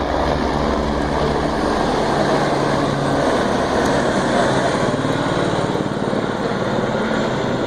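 Helicopter turbine and rotor running steadily close by: a steady engine whine over a rapid low throb.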